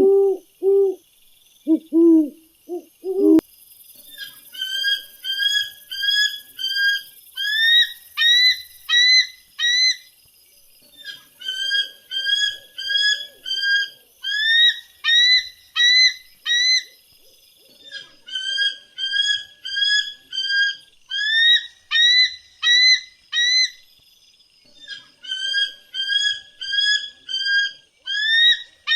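Animal calls: a few low, repeated hooting notes in the first three seconds, then, after an abrupt change, a high-pitched whistled call. The whistled call comes as notes about two a second, in phrases of roughly ten notes, repeated four times with short pauses.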